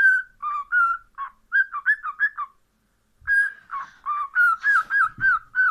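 Cockatiel whistling a quick series of short warbling notes that dip and rise in pitch, in two phrases with a brief pause about two and a half seconds in.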